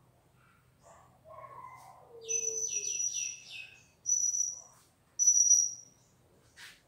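A bird calling: a run of four quick falling chirps, then two long, steady, high whistled notes, which are the loudest sounds.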